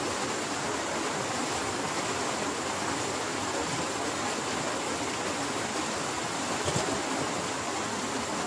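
Heavy rain falling steadily in a dense, even hiss, with one brief sharper tap about two-thirds of the way through.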